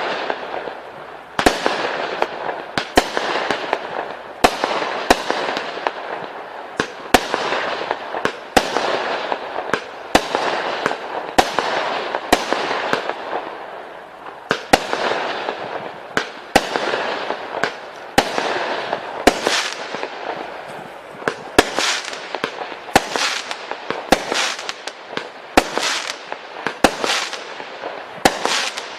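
Display firework cake firing shot after shot: a sharp bang about every two-thirds of a second, with a steady hiss and crackle of bursting effects between the bangs.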